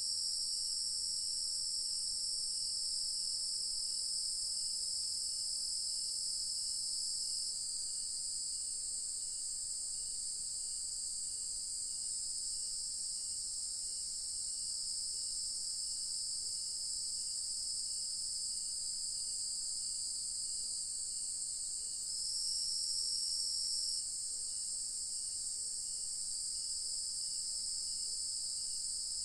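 Chorus of crickets trilling steadily at a high pitch, with a faint chirp repeating at an even pace underneath. One part of the chorus drops out about a quarter of the way in, and another swells louder for about two seconds toward the end.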